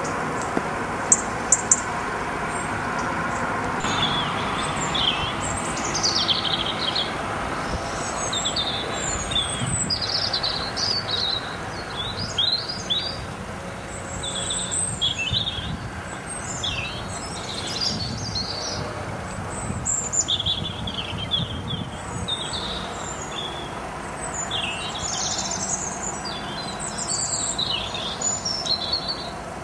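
Small songbirds chirping and twittering in repeated short phrases over a steady background rush, with a few sharp clicks about a second in.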